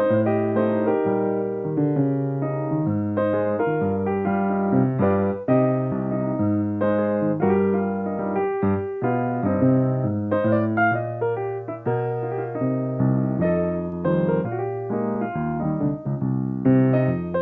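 Solo piano playing live accompaniment, a continuous run of chords over bass notes that change every fraction of a second.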